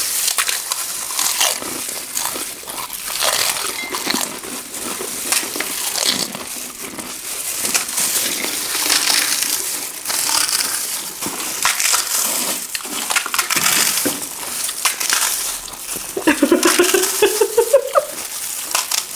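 Crunchy food being chewed and crushed fast at the mic, a steady run of crackling, crunching bites. Near the end a voice lets out a rising hum.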